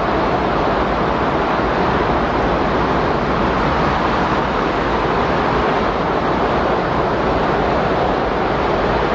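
Windstorm ambience: a steady, loud rush of wind noise with no gusts or breaks.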